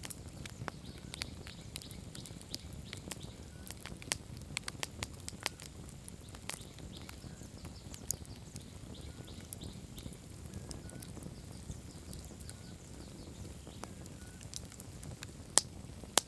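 Wood campfire crackling, with irregular sharp pops and snaps over a low, steady rumble of the burning fire. Two of the loudest pops come near the end.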